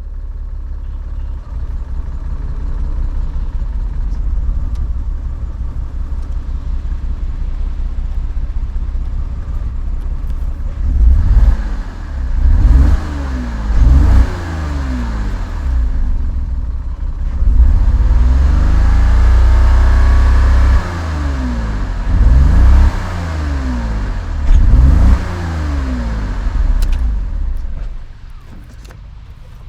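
Porsche Cayman 987's 2.7-litre flat-six running steadily, then revved repeatedly from about 11 seconds in, with one longer held rev in the middle. The engine is misfiring on five cylinders after an engine warning light.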